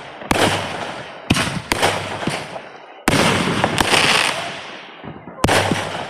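Fireworks going off in quick succession: about five sharp bangs, each trailing off in a crackling, fading tail.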